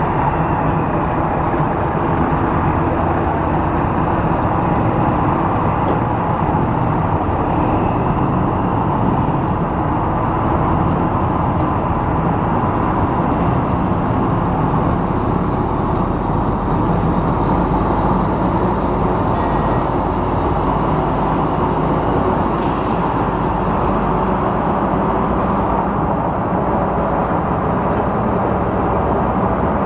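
Heavy vehicle engines running close by, a loud steady rumble with no pauses. Two short hisses come in the second half.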